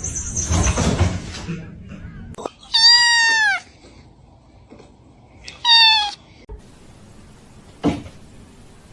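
A domestic cat meowing twice: a longer meow that falls in pitch at the end, then a shorter one a few seconds later.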